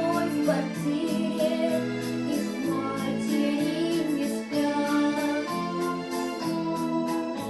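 A song with singing over sustained backing chords, the notes changing about once a second.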